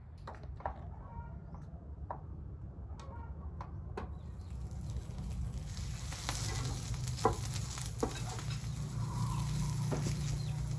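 Food frying in a hot pan: a sizzle that starts about four seconds in and grows fuller, with scattered sharp clicks.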